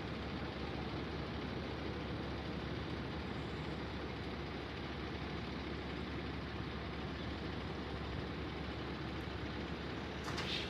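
A truck's engine idling steadily, with a short, sharper noise just before the end.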